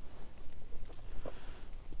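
Strong wind buffeting the microphone in a gale, a steady fluctuating rumble, with a few small knocks and rustles of handling.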